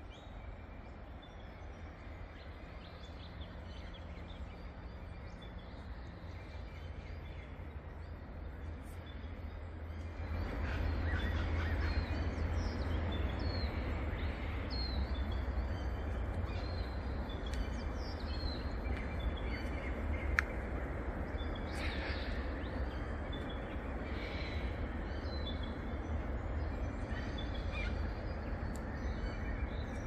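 Forest birds calling with many short chirps and whistles over a steady low background rumble; both grow busier and louder about a third of the way in.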